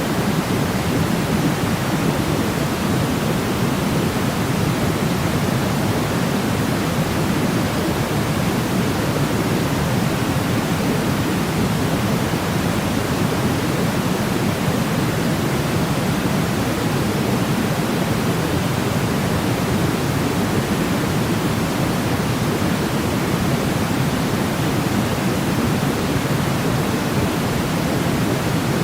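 Steady white-noise sleep sound: an even, unbroken rush, heavier in the lows than a bright hiss, with no rhythm, tones or changes.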